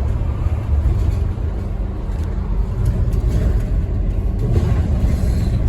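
Scania N230UD OmniCity double-decker bus heard from inside the passenger cabin: a steady low rumble of its 9-litre five-cylinder diesel engine and running gear as the bus drives along.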